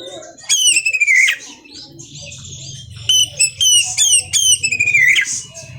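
Oriental magpie-robin (kacer) singing loud whistled phrases: a long downslurred whistle near the start, a run of short repeated notes, then another long falling whistle near the end. A low steady hum sits underneath from about two seconds in.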